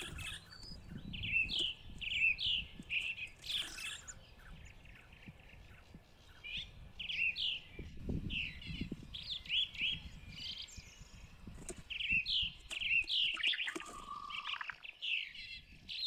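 Small songbirds chirping: short, high calls in quick runs through most of the stretch, with a lull around five to six seconds. Low rumbles come about a second in and again around eight seconds.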